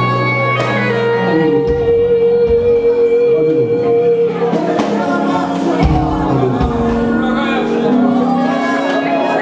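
Live worship band music in a large hall: sustained keyboard chords with held notes and a few drum hits, with singing voices joining in.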